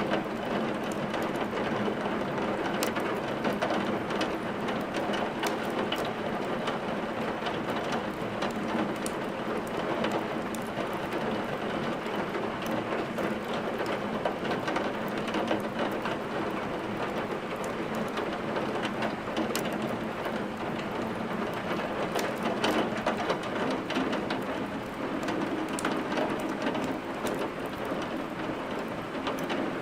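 Steady rain hissing evenly, with a wood fire crackling in a fireplace: scattered sharp crackles over the rain.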